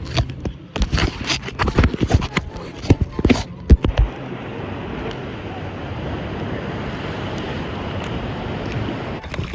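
Gusty, irregular buffeting and knocks from wind and water on an open-air microphone on the sea, giving way about four seconds in to a steady rush of wind and ocean water.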